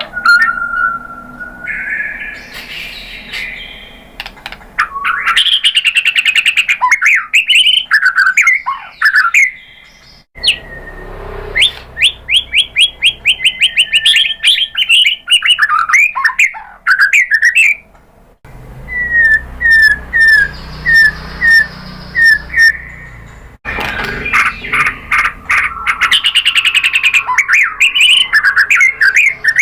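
White-rumped shama singing: loud, varied whistled phrases with fast runs of repeated notes and sweeping notes. Around two-thirds of the way through there is a slower series of separate notes, about two a second. The song comes in sections that change abruptly several times.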